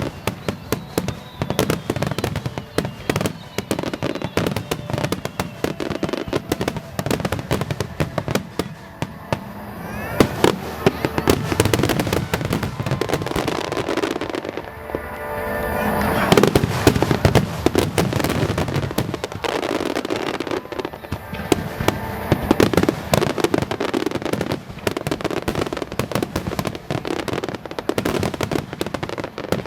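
Fireworks display: a dense, continuous barrage of shell bursts and crackling, with a few rising whistles about ten seconds in. Music and crowd voices sound underneath.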